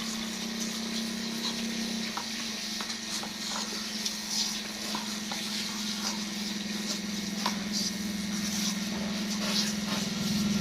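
A steady machine hum holding one low pitch, with scattered light clicks and taps.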